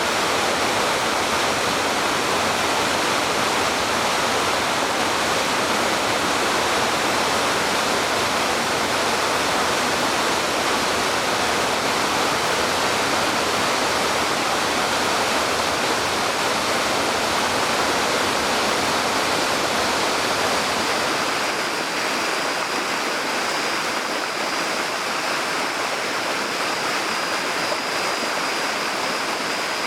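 Spring-fed mountain stream rushing steadily over rocks. About two-thirds of the way through, the water's sound thins slightly and a faint, thin high steady tone joins it.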